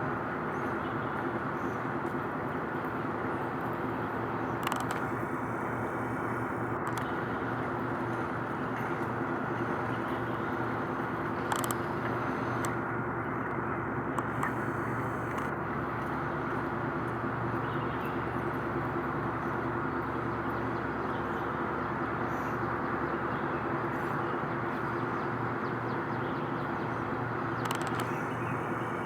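Steady hum of road traffic, with a constant low drone and a few faint brief ticks.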